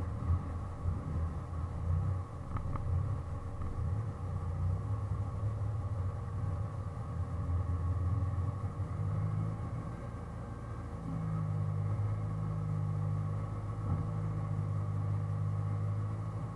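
Mitsubishi Lancer Evolution VIII MR's turbocharged 2.0-litre 4G63 inline-four running steadily with a low drone that grows a little stronger about two-thirds of the way through.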